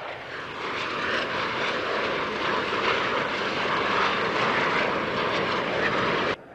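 Snowbirds' CT-114 Tutor jets passing low: a steady jet rush that builds over the first second and cuts off suddenly near the end.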